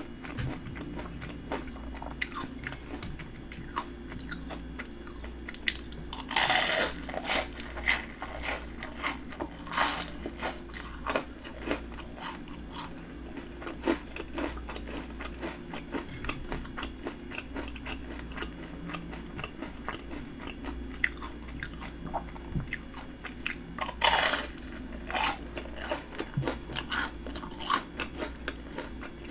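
Crunching bites and chewing of a breaded fried shrimp. There are two loud crunchy bites, about six seconds in and again later on, with smaller crunches and wet mouth clicks between them.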